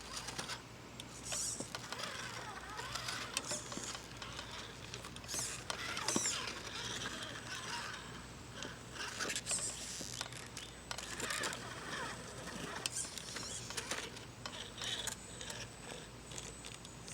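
Small geared mechanism whirring and clicking irregularly, with short whirring sweeps and scattered clicks and scrapes over a steady low hum.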